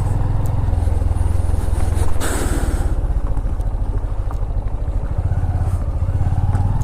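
Single motorcycle engine running steadily at low revs, a close, even pulse throughout. A brief hiss comes about two seconds in.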